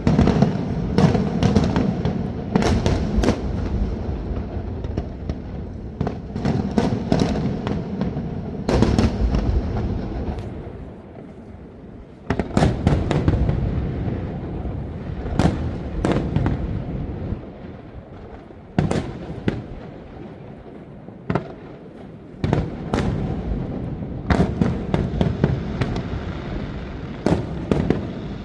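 Aerial fireworks display: repeated sharp shell bursts and crackling over a continuous low rumble, easing off in two short lulls about a third and two thirds of the way through.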